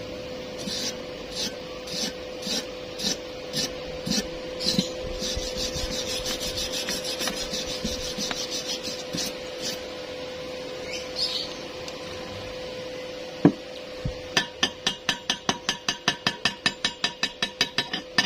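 A hand tool scraping or filing metal in repeated strokes, slower at first and then quicker, about four strokes a second near the end. A single sharp knock comes a little past halfway, and a steady hum runs underneath.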